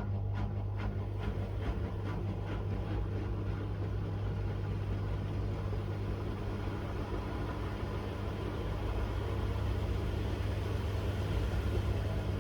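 Miele W1 washing machine running mid-cycle: a steady motor hum under the drum's noise. A fast, even ticking fades out in the first second or two, and the sound grows slightly louder near the end.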